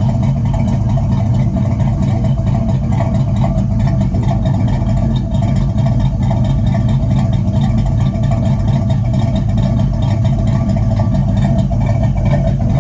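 Box Chevy's engine running steadily at idle. It is puffing white smoke out of one exhaust pipe with an oily spark plug on that side, which the mechanic takes for oil burning in one cylinder.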